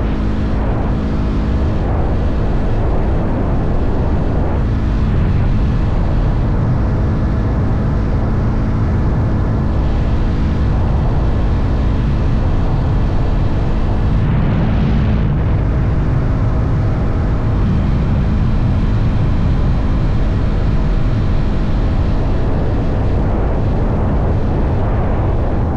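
Motorcycle engine running steadily at a constant cruising speed, its note holding level, with a dense rush of wind and road noise.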